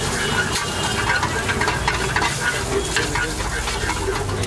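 Food sizzling in hot oil in a black wok over a gas flame, with a metal spatula and fork clicking and scraping against the pan many times.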